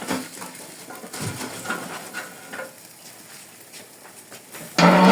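Charcoal being added to a barbecue grill: scattered light clinks and knocks of coals and grill tools, fading in the middle, with a much louder noise starting near the end.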